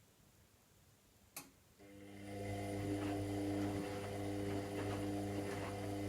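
Washing machine near the end of its cycle: a single click, then a motor inside starts with a steady electric hum at a constant pitch and a faint rattle. It runs for about four seconds and stops abruptly near the end.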